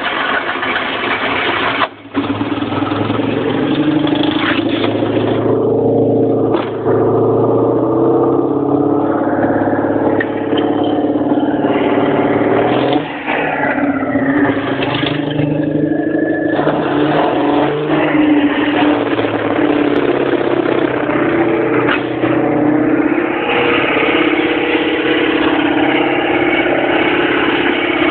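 The 435 cc air-cooled flat-twin of a 1970 Citroën Dyane 4 running just after starting, with a brief dip about two seconds in and a note that shifts as the revs vary before settling.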